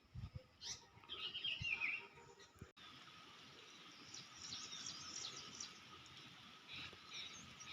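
Songbirds chirping and twittering over a steady background hiss, with a brief dropout about a third of the way in.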